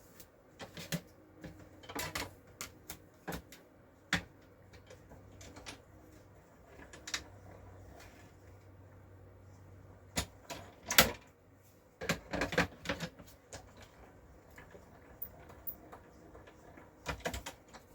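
Irregular clicks, taps and knocks of card-making supplies being handled on a craft table, in scattered clusters, with one sharper knock about two-thirds of the way through.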